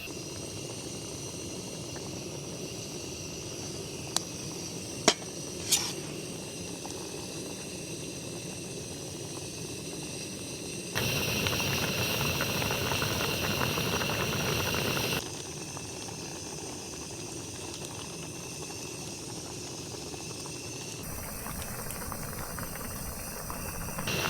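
Shrimp cooking in a pan on a camp stove, bubbling and hissing steadily. There are a few sharp clicks of a utensil about four to six seconds in. The sound gets suddenly louder and then quieter again at several points.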